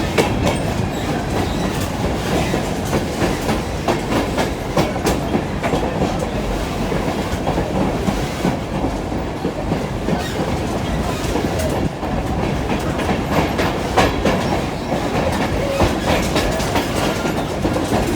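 Railroad passenger car rolling along the track, heard from aboard: a steady rumble of wheels on rail with frequent clicks and clacks from the wheels over the rail joints.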